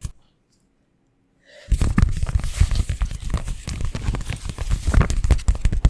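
A single click, then about a second and a half in, dense crackly rubbing and scratching starts right against the microphone: close-miked ASMR massage sounds of hands working over the mic.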